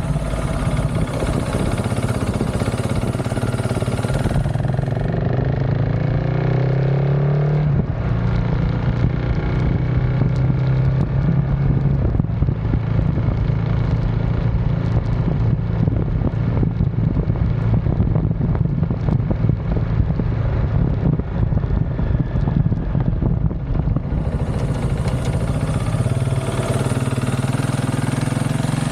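KTM 690 SMC R supermoto's single-cylinder engine, fitted with an aftermarket DVR exhaust, running under way. Its revs rise about five to eight seconds in as it accelerates, then hold, with gusty wind noise over the microphone through the middle stretch.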